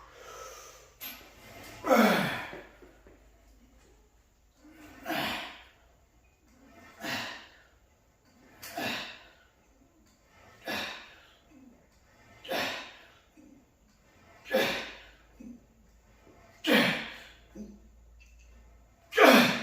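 A man's forceful exhales through the mouth and nose, one short breath with each rep of a heavy cable tricep extension, about every two seconds, some harder than others.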